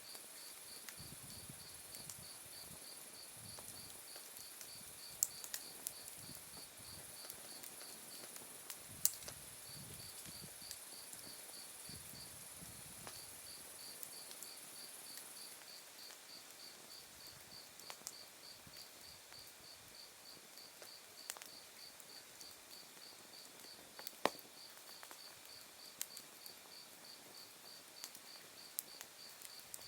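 Autumn night insects chirping: one calls in a steady run of regular pulsed chirps, pausing twice, over a continuous high buzz from another that stops about halfway through. An open wood fire burning down to embers gives scattered sharp pops, the loudest about 5, 9 and 24 seconds in.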